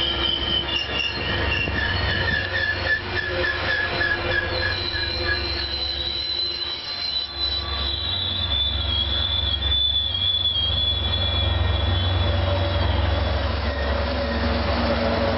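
A commuter train running past, with a steady low rumble of cars on the rails and high, wavering wheel squeal that drifts in pitch and fades out near the end.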